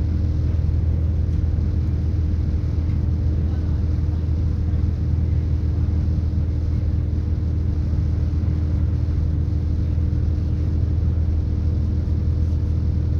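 Steady low rumble inside a British Rail Class 170 Turbostar diesel multiple unit under way: its underfloor MTU turbo diesel engine and wheels on the track, with a constant hum over it.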